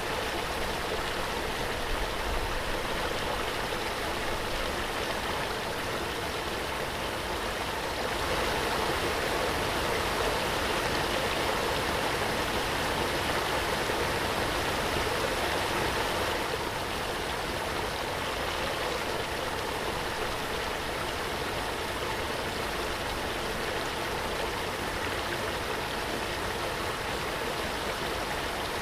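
Waterfall: water falling and rushing in a steady, even splash, a little louder for several seconds in the middle.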